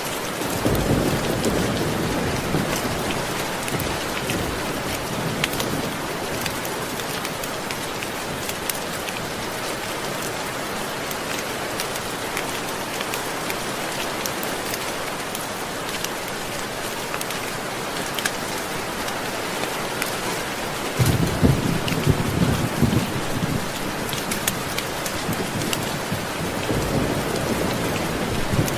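Steady rain hissing, with scattered ticks of single drops. Low rolls of thunder rumble about a second in, more strongly about 21 seconds in, and again near the end.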